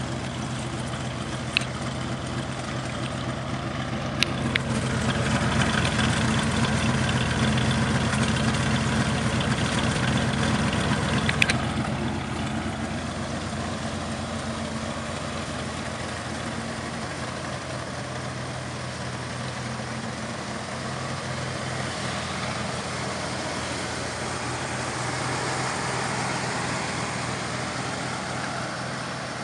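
Jaguar XJ-S engine idling steadily, its pitch holding level throughout, with three sharp clicks in the first dozen seconds.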